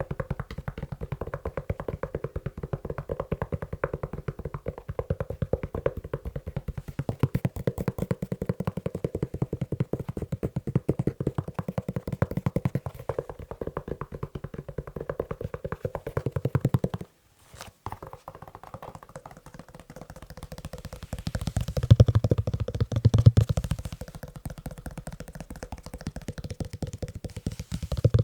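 Fast tapping on a leather shoe, many quick taps a second. It breaks off for a moment about seventeen seconds in, then picks up again with heavier, deeper taps a few seconds later.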